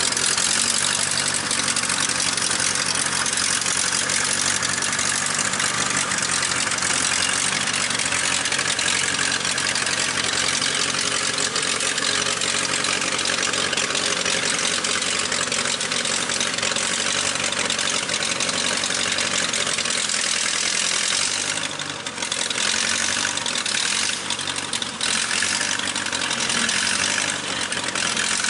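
1956 Case 310 tractor's carbureted engine running steadily, dipping briefly a couple of times near the end.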